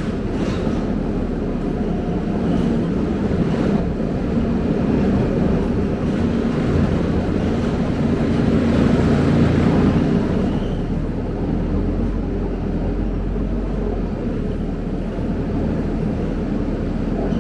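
Scania K270UB bus's diesel engine running with road and body noise, swelling in level about halfway through and then easing off.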